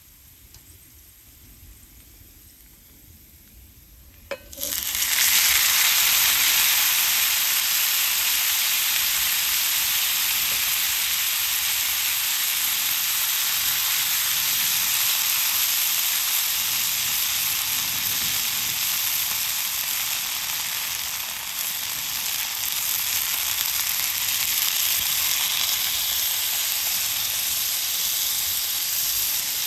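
Food sizzling in a hot pan: after a click about four seconds in, a loud steady frying hiss starts suddenly and keeps going.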